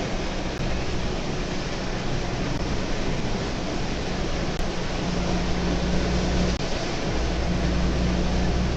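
Steady driving noise inside a moving car: an even rush of road and wind noise over a low engine hum that grows a little stronger about five seconds in.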